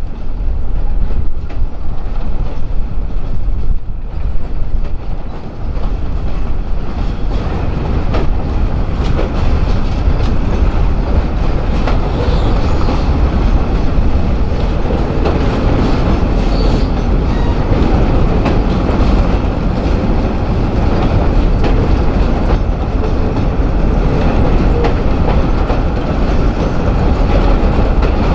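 Freight train rolling past, its cars' wheels clicking over the rail joints over a steady rumble.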